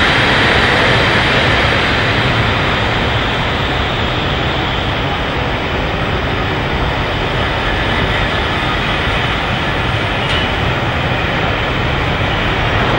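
Railway passenger coaches rolling past close by: a steady, loud rumble of wheels on the rails.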